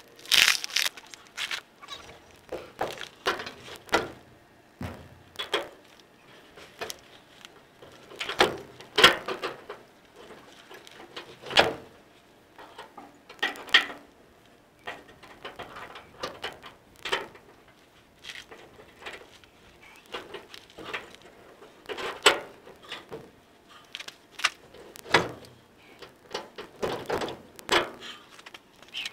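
Irregular knocks and metallic clanks of hand-tool work on a pickup's leaf-spring suspension: tools and steel parts struck and handled at uneven intervals.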